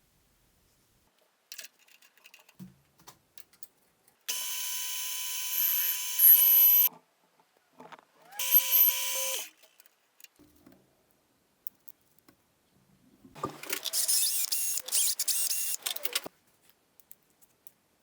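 A small electric motor whines steadily for about two and a half seconds, then again briefly, and later about three seconds of rapid rattling clatter follows. Small handling clicks fall in between.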